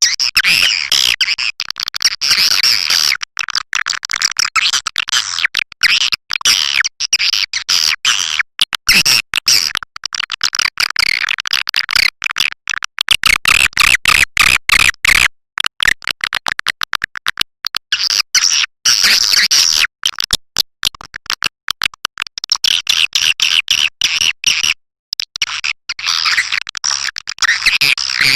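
Recorded swiftlet calls: a dense, rapid chattering of chirps and clicks from many swiftlets, played as a lure call for a swiftlet house.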